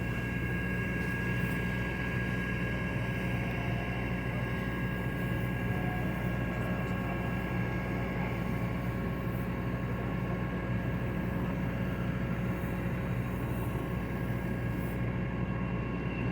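An engine running steadily: a constant low drone with a few steady whining tones above it, unchanged throughout.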